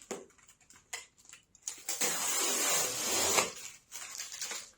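A cardboard package being cut open with scissors: a few small clicks and scrapes, then a sustained rasp of about a second and a half as the blade runs through the packing, and more scraping near the end.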